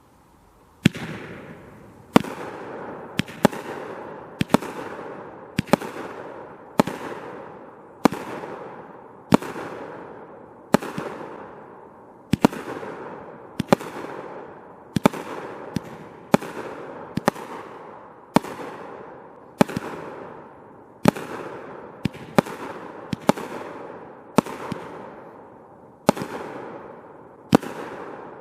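500-gram repeater firework cake firing shot after shot, about one a second, some two dozen in all. Each sharp bang is followed by a fading hiss of the brocade crown effect.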